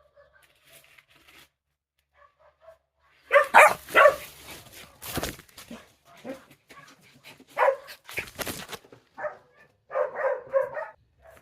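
Dogs barking in short bursts, loudest with two barks about three and a half seconds in, and a quick run of yips near the end. A few sharp noises fall between the barks.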